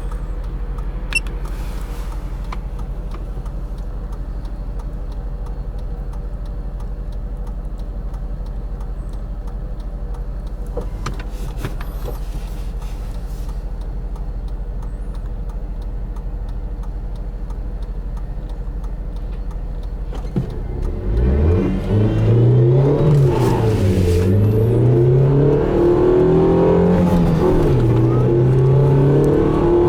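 Daewoo Lanos's A15SMS 1.5-litre four-cylinder engine idling steadily, then about twenty seconds in pulling hard at full throttle in a 0–100 km/h run, its pitch climbing through each gear and dropping back at the gear changes.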